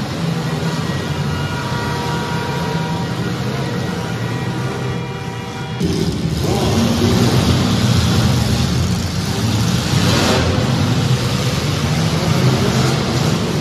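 Demolition derby compact cars' engines running hard and revving. The sound turns suddenly louder and rougher about six seconds in, with another brief surge of noise near ten seconds.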